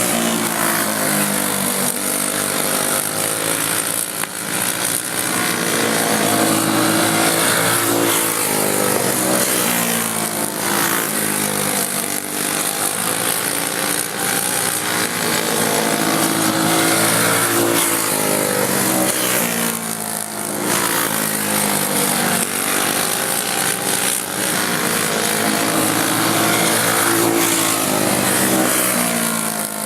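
A field of racing karts with Briggs & Stratton Animal single-cylinder four-stroke engines, run on alcohol, revving up and easing off again and again as they lap the track.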